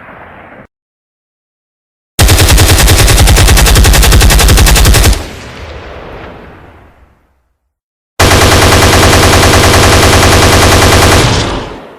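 Automatic gunfire sound effect: two long bursts of rapid fire, each about three seconds. The first trails off into a fading echo, and the second starts a little past the middle and fades out near the end.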